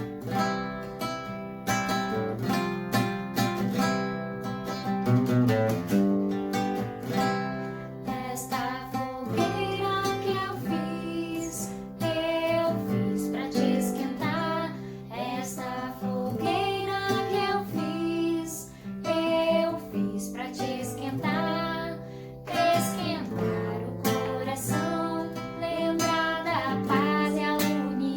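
Acoustic guitar strumming chords, joined by singing about nine seconds in: a hymn-like song with guitar accompaniment.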